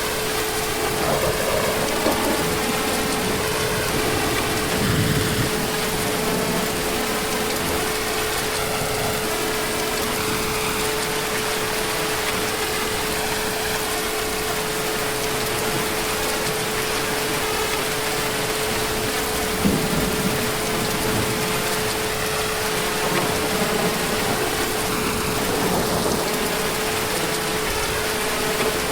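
Heavy rain falling steadily, with a faint steady hum running underneath.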